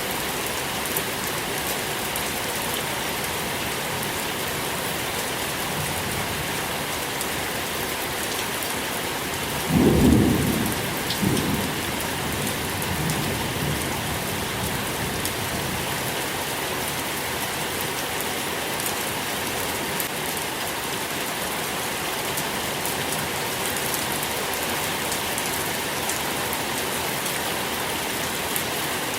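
Steady rain falling, with a roll of thunder about a third of the way in: a sudden low rumble that swells, then tails off over a few seconds.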